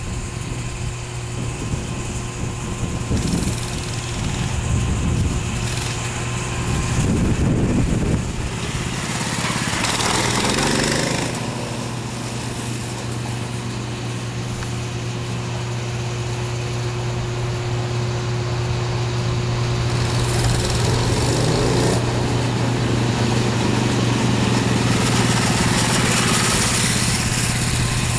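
Small gasoline engine of a minibike running under riding, its pitch rising and falling as the throttle is opened and closed, with a surge about a third of the way in and another past the middle.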